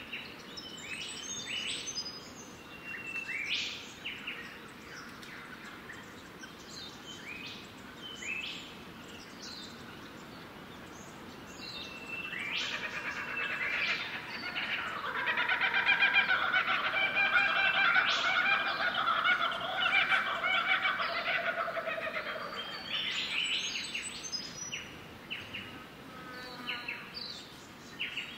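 Birds chirping with short, high calls. About twelve seconds in, a louder, fast-chattering call builds up and fades out again a little before the end.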